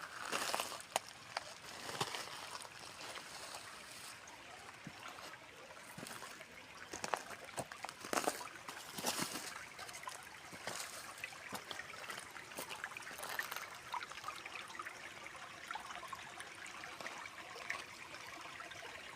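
Water trickling and running in a small stream, with irregular brief louder splashes, more of them in the first half.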